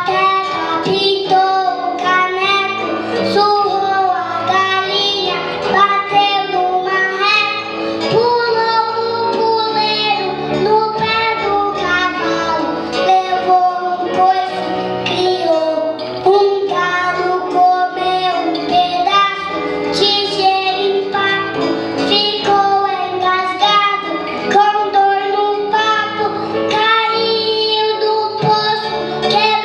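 Children's song: a child's voice singing a melody over instrumental accompaniment.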